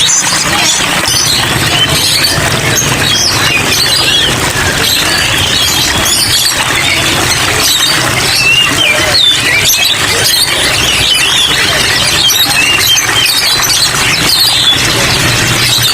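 Many caged songbirds chirping and twittering at once, a dense overlapping chorus of short high calls, over a steady hiss of rain.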